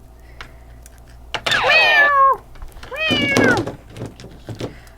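Two meows, the first about a second and a half in and the second about three seconds in, each bending in pitch.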